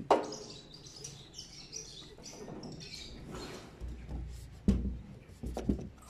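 Small birds chirping in short high twitters. There is a sharp knock right at the start, and a louder thump with a low rumble a little before five seconds in.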